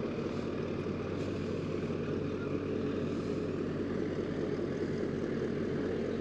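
A steady engine drone: an even, low hum with a constant pitch that does not rise or fall.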